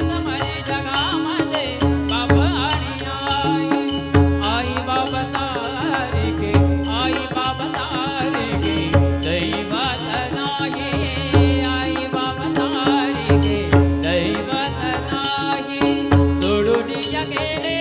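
Music of a Marathi abhang (devotional song): a wavering melody line over drum beats, with small cymbals ticking about four times a second.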